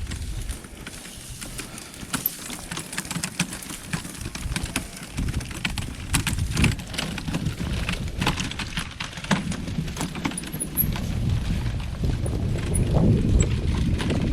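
Footsteps and a pulled wagon's wheels knocking and rattling over a rough dirt trail, as a steady run of irregular clicks and knocks with a low rumble that grows louder near the end.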